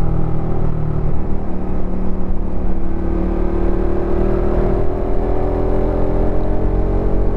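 Suzuki Satria FU FI motorcycle's 150 cc single-cylinder engine and exhaust running while being ridden, the engine note rising gently through the middle as it picks up speed, then holding steady.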